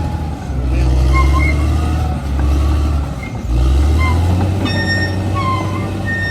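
Bulldozer's diesel engine working under load, surging louder and easing off several times, with short high-pitched squeals over the rumble and a steady high whine setting in near the end.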